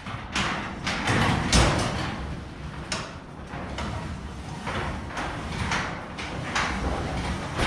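Sectional garage door moving along its tracks, the rollers and panels rumbling with several knocks and rattles, loudest about a second and a half in. The door is being worked by hand to test the balance of newly installed torsion springs.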